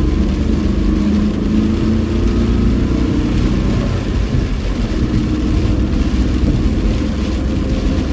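Car running on the road, heard from inside the cabin: a steady low rumble with engine tones that drift up and down in pitch as it pulls, over a constant hiss.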